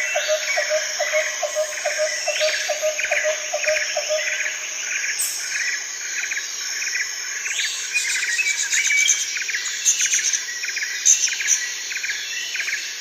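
Small birds calling outdoors, with short chirps repeated about twice a second throughout. In the first few seconds a lower note repeats about three times a second, and higher, thinner chirps join in the second half.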